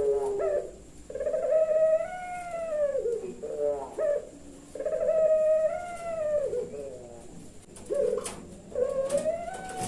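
Puter pelung dove, a Javanese strain of Barbary dove, cooing: three long drawn, arching coos, each trailing off into a short broken run of notes.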